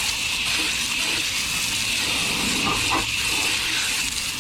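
Water spraying steadily from a hose nozzle as a wheel is rinsed of cleaner, a continuous hiss.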